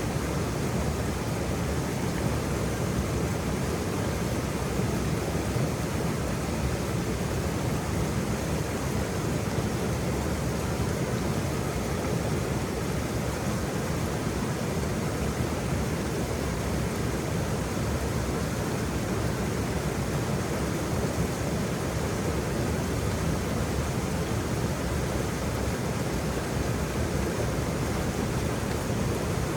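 Waterfall: the steady rush of falling water, strongest in the low range, with no breaks or changes.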